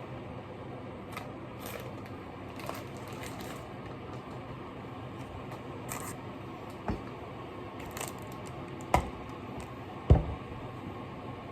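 Kitchen utensils and containers being handled during cooking prep: scattered light clicks and clatter over a steady low hum, with three sharper knocks near the end, the last one the loudest.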